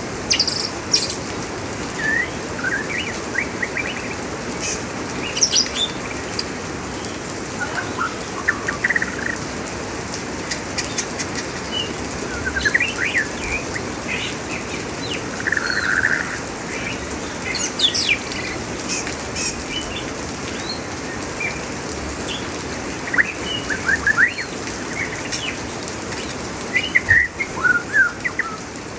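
A songbird chirping and singing in short, scattered phrases over the steady hiss of rain.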